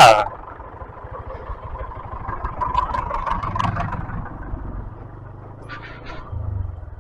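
A 125cc motorcycle engine running under way on a rough road, with wind noise, getting louder for a second or two midway. A sharp loud burst comes right at the start.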